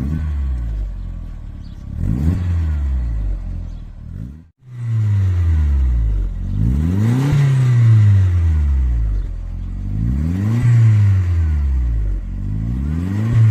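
Volkswagen Beetle engine revved through a sport muffler with a twin exhaust tip, about five blips of the throttle, each rising and falling in pitch, with a brief break about four and a half seconds in.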